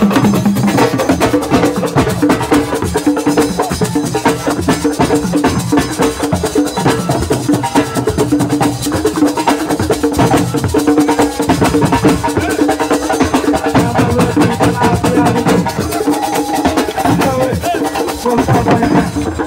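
Live assiko band music: drums and percussion play a dense, fast rhythm under steady held tones.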